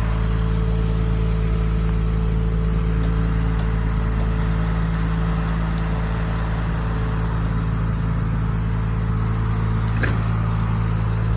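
Engine running steadily at idle, with a brief sharp sound near the end.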